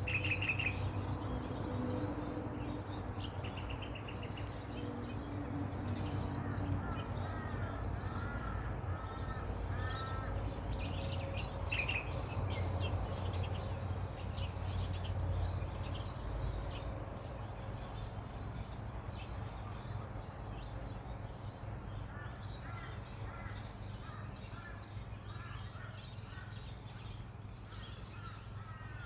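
Garden birdsong: a crow calling in runs of four or five short caws, twice and again near the end, among scattered higher chirps from other birds, over a steady low rumble.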